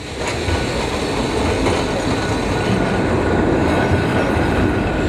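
Vintage Blackpool electric tram running along the track: a steady loud rumble of wheels on rail, with a thin high whine holding from about a second and a half in.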